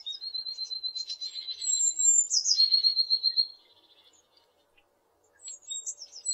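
Bird calling: high falling whistles followed by a fast, rattling trill, in two bouts with a quiet gap of a couple of seconds around the middle.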